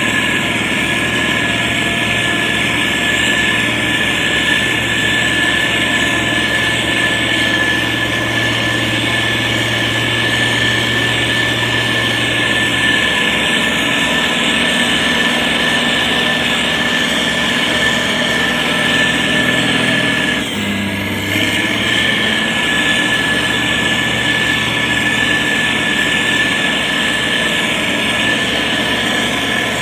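Diesel engine of a SANY STG190C-8S motor grader running steadily while working soil, with a steady high whine over the engine note. The engine note shifts partway through and dips briefly about two-thirds of the way in.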